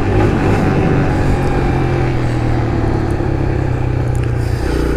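Kawasaki KLX140's single-cylinder four-stroke engine running steadily under way. The engine note drops near the end.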